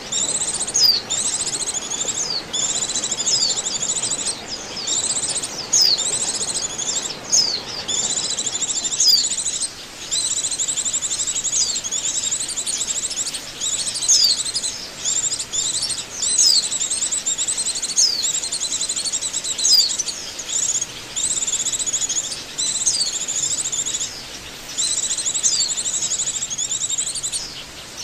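White-eye (pleci) song played as a bird-trapping lure: a long run of high, thin, rapid twittering phrases, each a second or two long with brief breaks between them.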